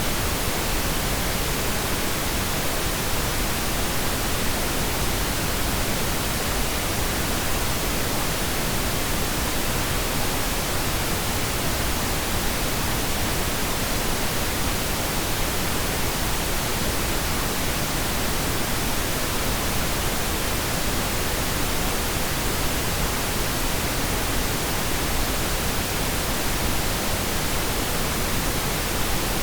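Steady, even pink noise with no changes or separate events.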